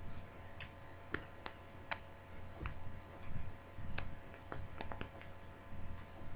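Faint, irregular light clicks and taps of small plastic laptop parts and tools being handled as a glued-on webcam is worked loose from a laptop lid.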